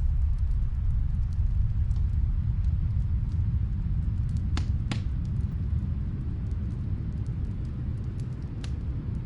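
Snowstorm wind making a steady low rumble, with faint fireplace crackles scattered through it and two sharper pops about four and a half and five seconds in.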